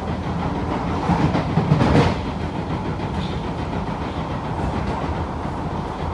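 Cabin noise of an SMRT C751B train running at speed: steady wheel-on-rail rumble, with a louder rush of noise swelling about two seconds in as a train passes on the opposite track.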